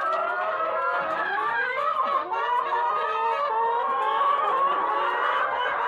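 A flock of caged laying hens calling and clucking together: a continuous chorus of many overlapping, wavering calls.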